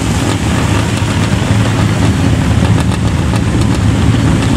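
Racing car engine running steadily at a fairly even pitch, with a strong low hum and a hiss of noise over it.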